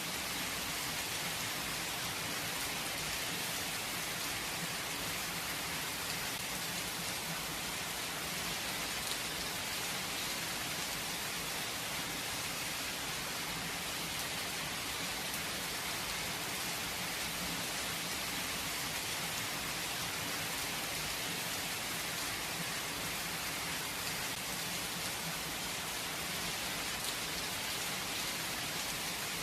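Steady rain falling, an even hiss of drops without thunder.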